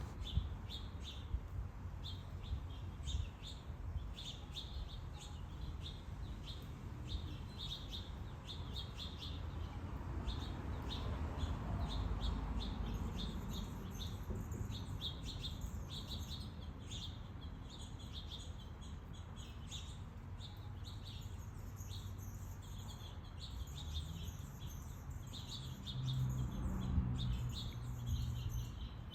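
Small backyard songbirds chirping and twittering in many short calls, over a low rumble of breeze on the microphone that swells around the middle and again near the end.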